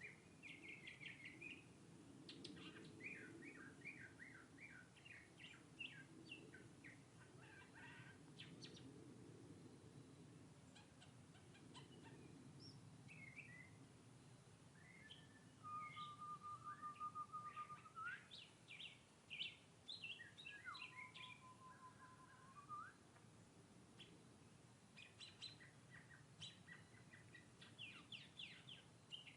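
Northern mockingbird singing: faint, varied phrases of quick repeated chirps, one phrase after another. Twice, about halfway through, a long steady whistled note sounds, lower than the chirps and ending in a quick upturn.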